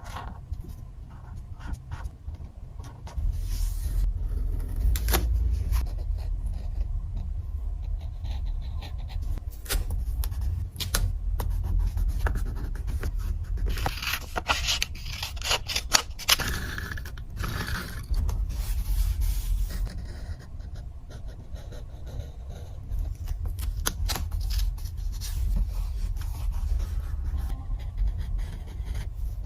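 Paper journaling sounds: paper being scraped, rubbed and cut with scissors, with many small clicks and taps. A low rumble runs underneath from about three seconds in.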